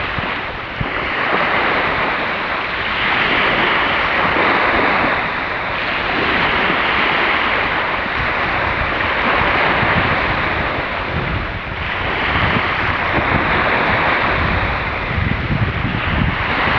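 Surf washing ashore, a steady rush that swells and ebbs every few seconds, with wind buffeting the microphone.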